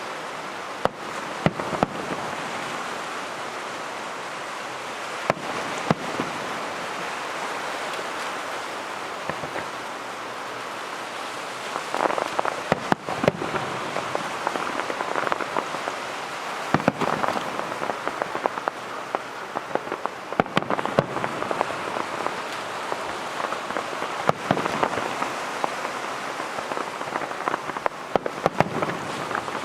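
Fireworks crackling densely, with many sharp pops and bangs scattered through it, thicker from about twelve seconds in.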